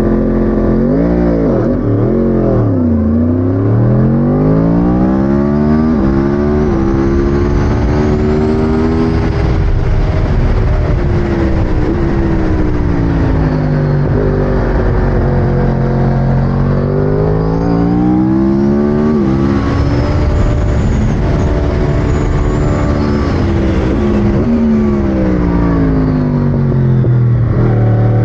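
2009 Yamaha R1 superbike's crossplane inline-four accelerating hard and shifting up, the revs climbing and dropping sharply at each gearchange, then falling away as it slows for bends. Wind rushes over the helmet-mounted microphone.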